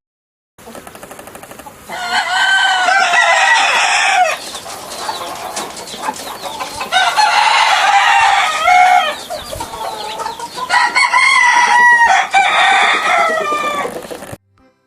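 Rooster crowing three times, each long call lasting about two seconds, over a steady noisy farmyard background.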